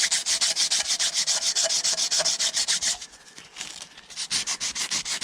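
120-grit emery paper rubbed back and forth by hand over the metal gasket face of a Ferguson TED cylinder head, in quick strokes several a second. It is cleaning corrosion off the mating face before a new head gasket goes on. The strokes ease off for about a second past the middle, then pick up again.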